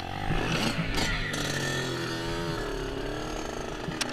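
Small off-road engine from a dirt bike or quad revving, its pitch rising and falling as the throttle is worked.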